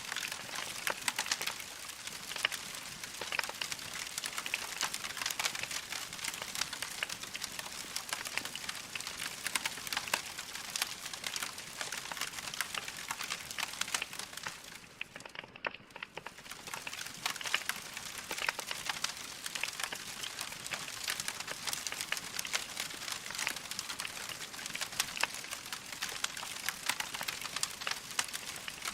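Wood fire crackling: dense, irregular small pops and snaps of burning logs over a soft hiss, briefly quieter about halfway through.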